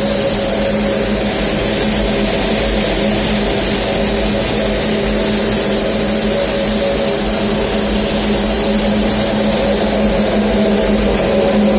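Industrial gas burner and blower of a rotary furnace running: a steady loud rushing hiss with a constant motor hum underneath.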